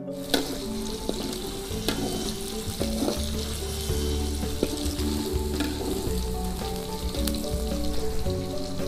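Shredded fish sizzling in hot oil in a steel wok, with a metal spatula stirring and scraping, clicking now and then against the pan. Soft background music plays under it.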